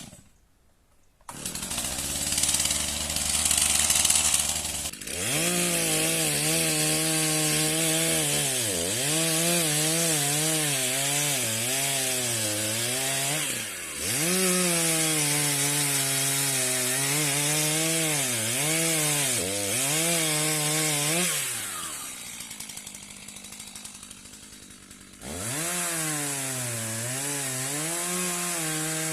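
Chainsaw running, first at a steady idle. It is then throttled up and cutting into a tree, its engine pitch wavering and dipping repeatedly as the chain loads in the wood. It drops back to idle briefly, then revs and cuts again near the end.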